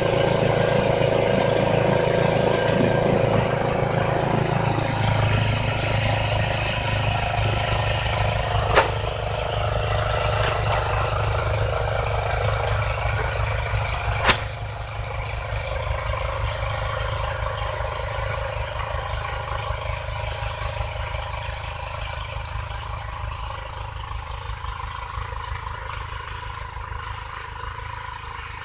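Ariens snowblower engine running steadily, with two sharp knocks about nine and fourteen seconds in. The engine gradually gets quieter over the second half.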